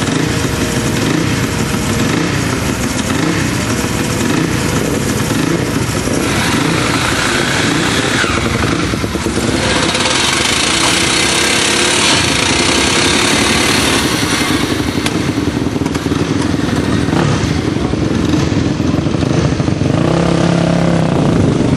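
Single-cylinder Supermono racing motorcycle engines running and revving, their pitch rising and falling.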